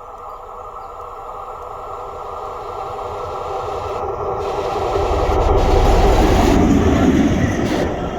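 SNCF BB 66000-class diesel-electric locomotive approaching and passing close by. Its engine and running gear grow steadily louder, are loudest from about five to seven and a half seconds in, then begin to fade.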